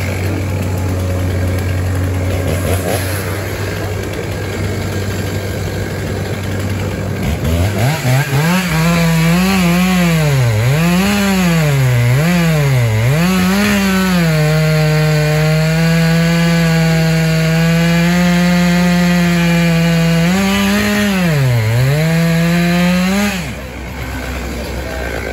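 A steady low engine drone, then a two-stroke chainsaw revs to full throttle and cuts, its pitch dipping again and again as the chain bites into the wood. It then holds steady through a long cut, dips once more and drops off near the end.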